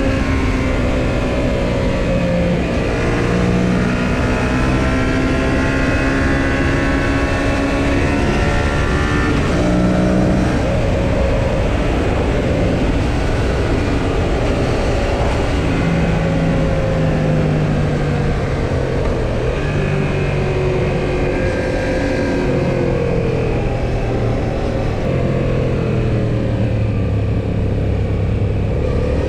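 Yamaha XSR700's 689 cc parallel-twin engine running under way. Its pitch climbs and drops several times as the bike accelerates and changes gear, over a steady rush of road and wind noise.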